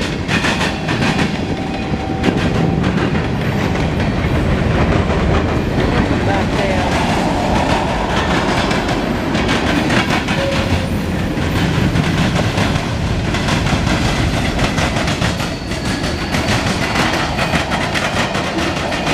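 Mixed freight train's cars rolling past, loud and steady, with the wheels clacking rhythmically over the rail joints.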